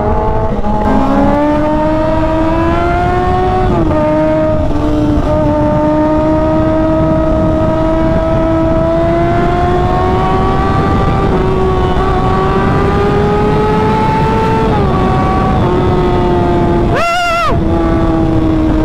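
Sport motorcycle engine heard on board while riding at steady cruising revs, its pitch slowly climbing. It dips briefly twice, and near the end it makes a short, higher rise and fall.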